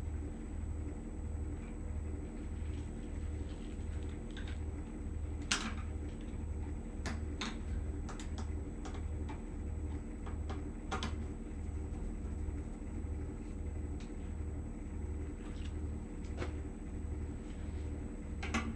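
A steady low machine hum with an even throb of about one and a half beats a second, with scattered light clicks and knocks of handling over it.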